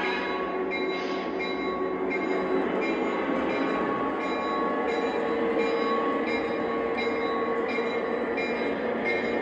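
Lionel O-gauge Santa Fe E8 model diesel locomotives running along three-rail track: a steady running sound with a few held tones and light clicks repeating about twice a second.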